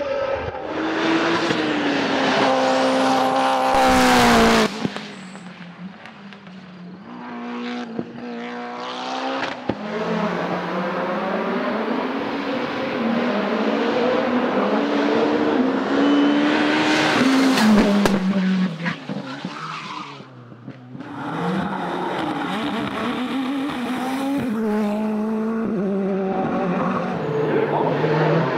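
Racing cars on a hillclimb driven flat out, engines revving high and dropping back at each gear change, over several passes. The sound cuts abruptly about four and a half seconds in, and dips again about twenty seconds in.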